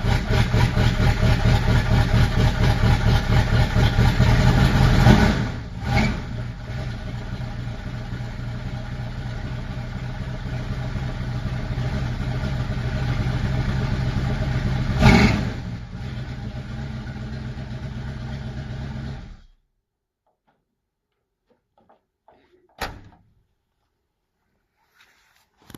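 V8 engine running with a lumpy, pulsing beat, still warming up after a cold start, with a brief rev about five seconds in and another about fifteen seconds in, then switched off and stopping suddenly. One short knock follows a few seconds later.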